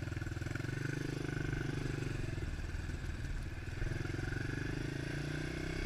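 110 cc single-cylinder four-stroke pit bike engine running at a steady, even pace, with its fine rapid firing pulses heard throughout.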